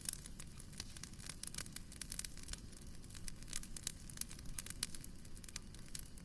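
Wood fire crackling in a fireplace: many irregular snaps and pops over a low, steady rumble.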